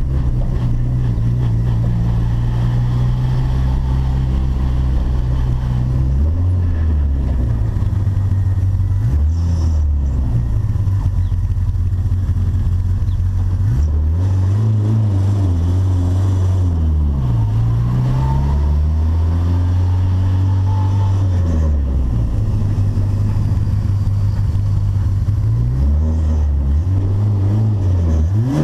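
Volkswagen Gol turbo engine running at low, fairly steady revs, its pitch dipping and climbing again a few times. Right at the end the revs begin to rise sharply.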